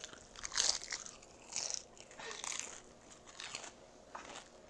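Crispy broiled chicken thigh skin crunching as it is bitten and chewed: a crunch about once a second, growing fainter.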